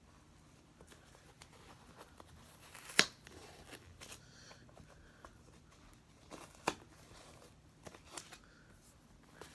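Disposable newborn diaper being handled and fastened: soft rustling with a few sharp tearing clicks, the loudest about three seconds in and another near seven seconds.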